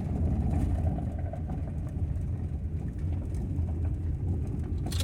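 Ford Transit camper van driving, heard from inside the cab: a steady low engine and road rumble.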